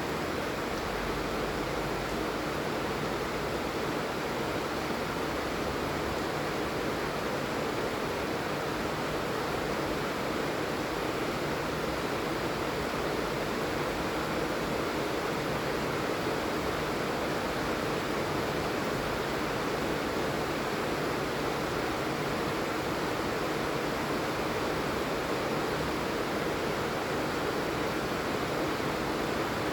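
Steady rainfall, an even hiss with no distinct drops or pauses.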